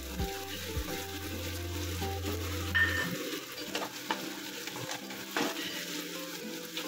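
Chopped onions and carrots sizzling in hot oil in a nonstick wok while a wooden spatula stirs them. The spatula scrapes and knocks against the pan a few times.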